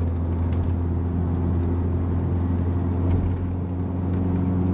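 Turbocharged 2.0-litre 8-valve engine of a VW Jetta wagon pulling steadily under way, heard from inside the car over road noise, with a brief dip in loudness about three and a half seconds in.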